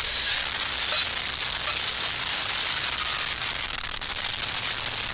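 Small camp fires burning: a steady hiss with faint scattered crackles from the wood fire and alcohol stoves heating the water cups.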